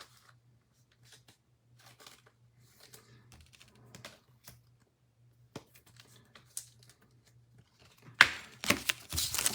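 Trading cards being handled, with faint scattered clicks and slides. About eight seconds in comes a loud crackling crinkle and tear as a card pack's wrapper is ripped open.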